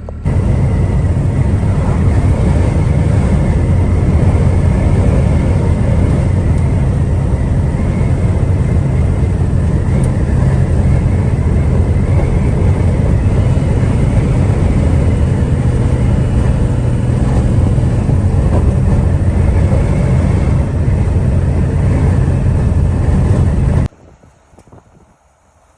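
A box truck driving: a loud, steady rumble of engine and road noise that cuts off suddenly near the end.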